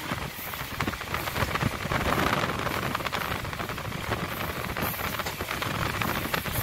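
MEMU electric commuter train running along the line, heard from inside the coach: a steady rush of wind and rolling noise with a rapid patter of small rattles and clicks.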